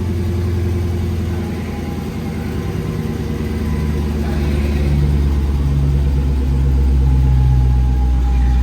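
Dodge Challenger SRT Demon's supercharged V8 idling steadily just after a cold start, gradually getting louder.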